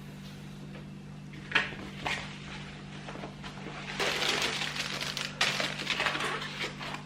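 Objects being handled: two sharp knocks, then about three seconds of clattering and rustling from about four seconds in, over a steady low hum.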